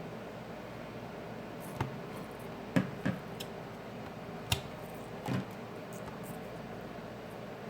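About five small clicks and taps from hands and tools handling a smartphone's parts on a workbench, over a steady low background hum.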